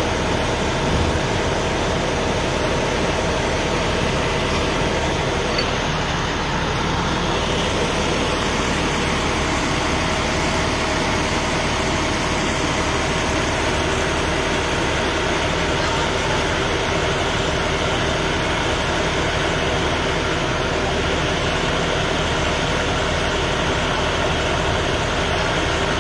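A heavy vehicle's engine idling steadily, a constant even drone with no change in speed.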